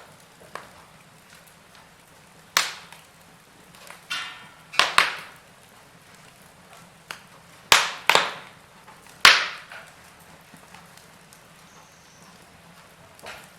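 Wood fire burning in a fireplace: scattered sharp crackles and pops of burning logs, about five loud ones and a few smaller ticks, over a faint steady hiss, with a brief sizzle just after 4 s.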